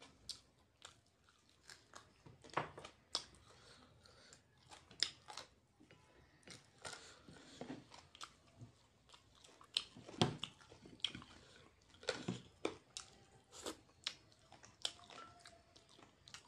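Close-up eating sounds of a man chewing and biting chicken lollipop pulled off the bone with his fingers: irregular wet smacks and sharp clicks of mouth and lips, a few a second.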